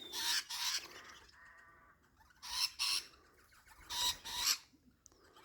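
Sulphur-crested cockatoos screeching: three short, harsh calls about a second and a half apart, with a fainter call between the first two.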